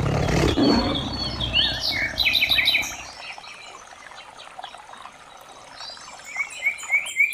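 Birds chirping in short rising and falling calls, over a deep low rumble that fades out about three seconds in; the chirping thins out, then picks up again near the end.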